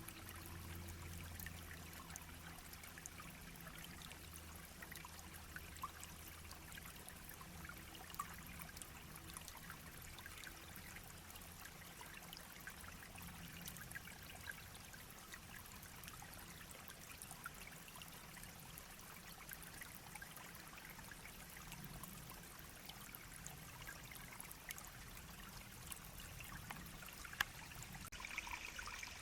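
Small shallow brook babbling and trickling steadily and faintly, with many tiny droplet splashes.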